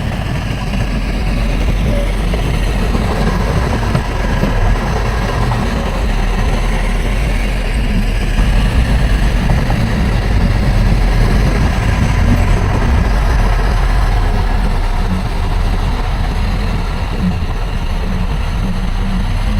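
Diesel engine of heavy earthmoving machinery running steadily, a little louder in the middle.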